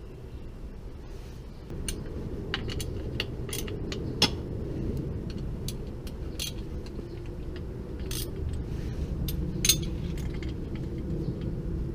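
Scattered light metallic clinks and taps, irregularly spaced, over a steady low rumble that gets a little louder about two seconds in.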